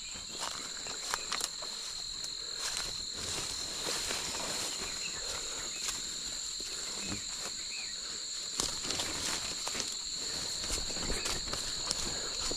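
Footsteps through forest undergrowth, with irregular crunches and snaps of leaves and twigs, over a steady high-pitched drone of insects at two pitches.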